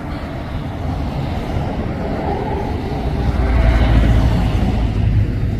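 Sea waves washing in: a continuous rushing rumble that swells to a peak about three to four seconds in, then eases off.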